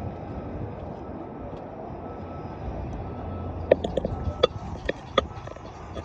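A quick series of six or seven short, sharp bird calls about four seconds in, over a steady low background rumble.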